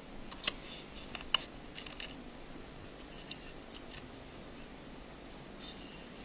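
Small sharp clicks and taps of a precision screwdriver and a tiny screw against an iPhone 5's metal case as the last screw holding the vibrating motor is undone, coming irregularly, several of them close together in the first two seconds and near the four-second mark.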